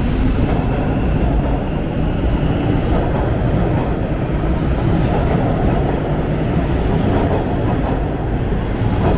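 Subway train running along the station platform: a loud, steady rumble of wheels on rail with a continuous low roar.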